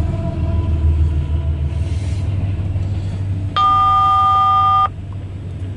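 CSX freight train rumbling past, with the faint tail of a locomotive horn fading in the first second or so. A bit over three seconds in, a loud steady electronic beep sounds for just over a second and stops abruptly.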